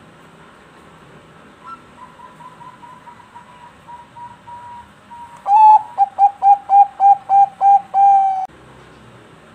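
Zebra dove (perkutut bangkok) singing its cooing song. A faint run of soft, evenly spaced notes is followed about five seconds in by a loud phrase: one strong opening note, a quick series of about nine short clipped coos, and a longer closing note.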